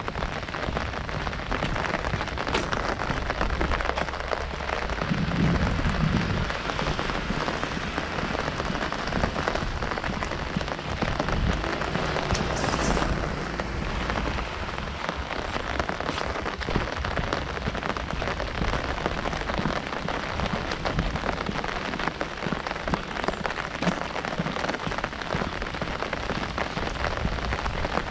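Heavy rain falling on an umbrella overhead: a dense, steady patter of drops.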